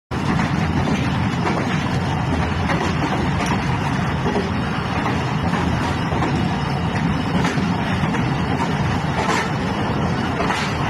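Steady rumbling vehicle noise, continuous and even, with a few faint clicks over it.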